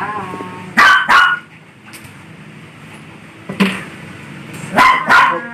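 A dog barking: five short, sharp barks, a quick pair about a second in, a single bark past the middle and another quick pair near the end.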